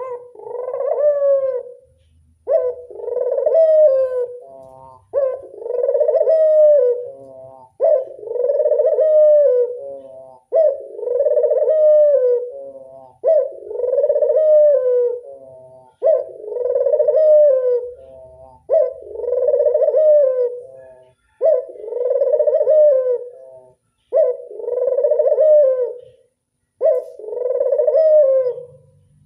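Ringneck dove (burung puter) cooing, about a dozen long, even coos in a row, one roughly every two and a half seconds.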